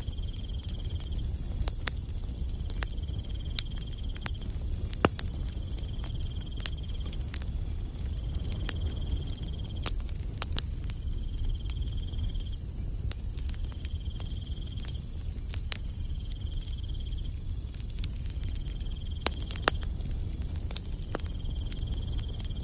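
Campfire crackling with irregular sharp pops over a low rumble, two pops about five seconds in and near the end standing out. A cricket chirps in high trills about a second long, roughly every two and a half seconds.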